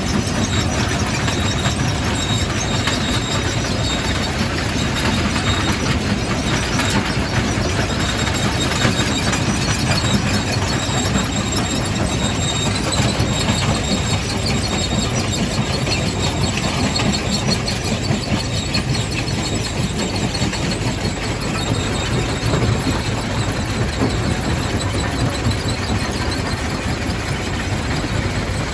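Quarry primary rock crusher running and crushing stone: a steady, loud grinding full of small cracks, with a high squeal over it.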